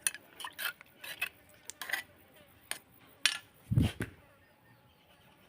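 Kitchen utensils clinking against dishes and cookware: a run of light, sharp clinks, then a heavier knock just before the four-second mark, after which it goes quiet.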